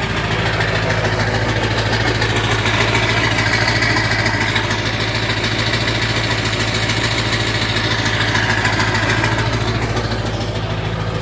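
1999 Ford F-250's 7.3 Powerstroke turbo-diesel V8 running just after a hard cold start, with a steady low drone. A higher note builds over it about two seconds in and fades away near the end.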